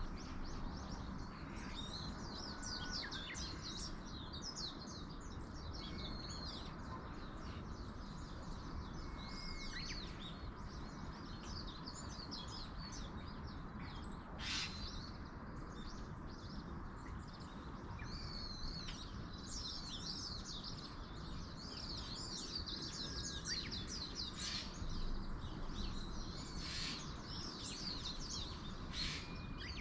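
Several small wild birds chirping and twittering in rapid short phrases throughout, over a steady rushing background noise. There is one sharp click about halfway through.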